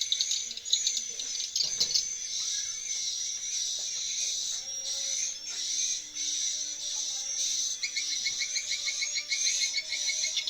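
Swiftlets twittering in a dense, continuous high chatter, with a run of rapid lower chirps, about six a second, in the last couple of seconds.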